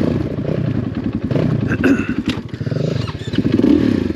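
KTM 500 EXC dirt bike's single-cylinder four-stroke engine running, its revs rising and falling a few times as the throttle is blipped.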